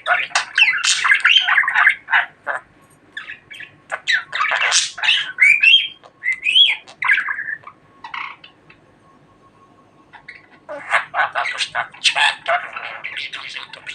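Budgerigar chattering and warbling: quick runs of chirps, squawks and rising and falling whistled notes, broken by a quiet gap of about two seconds past the middle, then a fast burst of chatter near the end.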